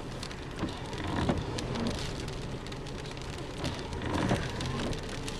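Heavy rain hitting a truck's body and windshield, with many sharp drop ticks over a steady low rumble.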